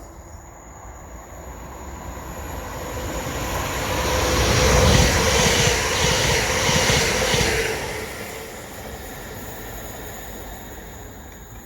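A train passing through at speed. It approaches over a few seconds, is loudest from about five seconds in with a rhythmic clatter of wheels, then fades away.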